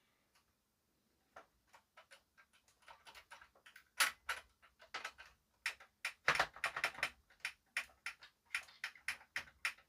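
Front-panel push buttons of a JVC RX-320V stereo receiver being pressed over and over as they are tested. A few sparse clicks come first, then rapid, irregular clicking from about three seconds in.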